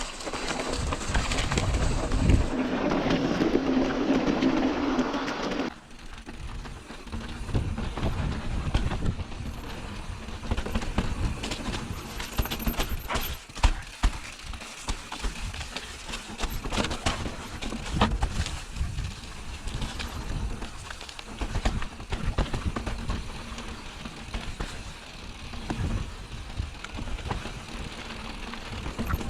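Mountain bike rattling and clattering over a rough trail, with many irregular knocks from the frame and parts. For the first six seconds or so a heavy rush of wind on the microphone covers it.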